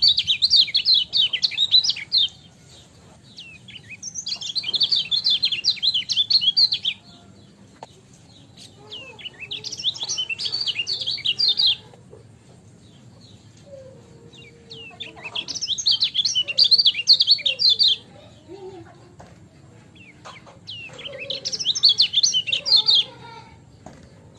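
Kecial kuning, a Lombok white-eye, singing in five bursts of rapid high chattering song, each two to three seconds long with short pauses between.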